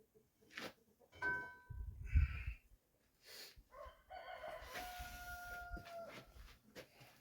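A rooster crows in the background, one long held call in the second half. A loud low thump about two seconds in, with scattered clicks and clanks of hand work on metal parts.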